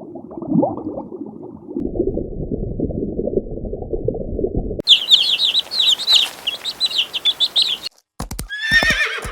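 A run of animal sounds. First comes low rough animal calling for about five seconds. Then rapid high-pitched bird chirping lasts about three seconds. Near the end come sharp hoof clicks and the start of a horse's whinny, falling in pitch.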